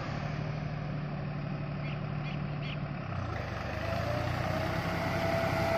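Deutz-Fahr Agrolux 50 tractor's diesel engine running steadily, with a steady whine joining in about four seconds in.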